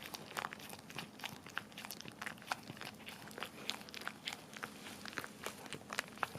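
Cavalier King Charles Spaniel licking and lapping at a plastic bag: quick, irregular wet smacking clicks, several a second, with faint crinkling of the plastic.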